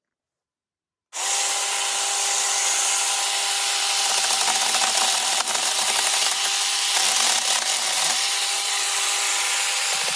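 Mini chainsaw running and cutting through bush branches: a steady motor whine over the rasp of the chain in wood. It starts suddenly about a second in, and the load shifts a little now and then.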